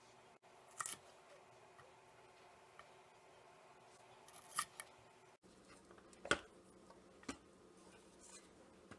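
A few sharp, separate clicks and knocks of kitchen prep work, with quiet room tone between them; the background hum changes abruptly about halfway through.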